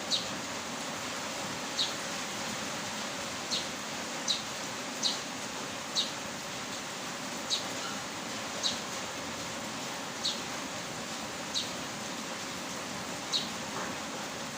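Steady rain hiss, with a bird giving about eleven short, high, falling chirps at uneven intervals of one to two seconds.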